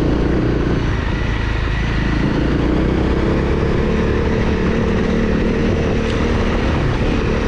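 Honda CRF250L's single-cylinder four-stroke engine running steadily as the dirt bike is ridden along a forest road, with a continuous rush of wind and road noise over it.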